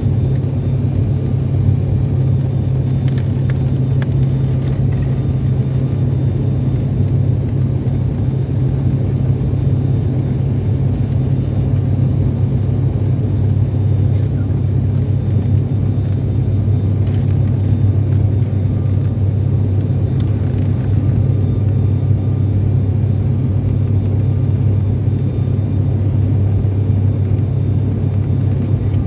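Steady, loud low drone of an airliner's engines and airflow, with a few faint clicks.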